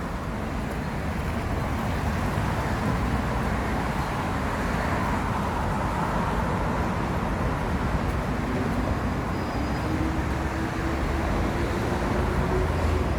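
Steady roadside traffic noise from passing cars and buses, with a low engine tone rising slightly in the second half.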